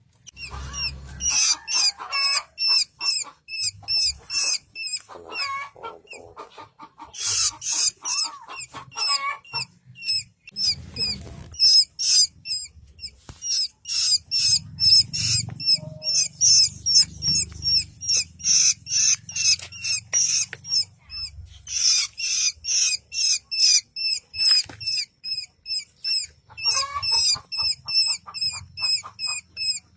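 Baby birds cheeping: short, high-pitched calls repeated several times a second without a break, with bursts of lower, harsher calls mixed in now and then.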